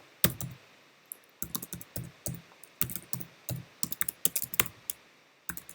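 Typing on a computer keyboard: quick runs of keystrokes in irregular bursts with short pauses between them.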